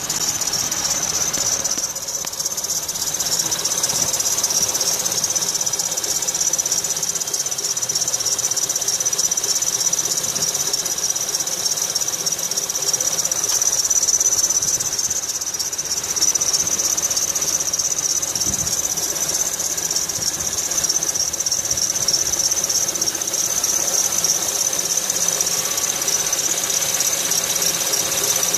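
Accessory drive belt of a 2005 Acura TL's V6 squealing steadily and high-pitched with the engine running. The belt is slipping on wet pulleys because the aged tensioner no longer holds enough tension.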